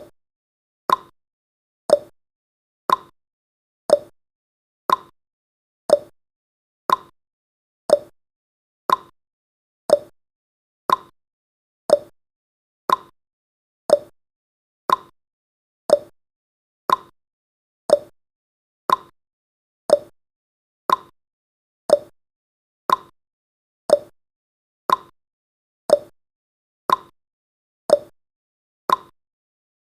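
Ticking sound effect of a countdown timer: one short, sharp tick every second, evenly spaced, with silence between.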